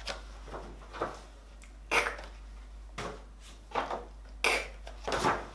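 A series of about eight short, sharp sounds, spaced irregularly, with little between them.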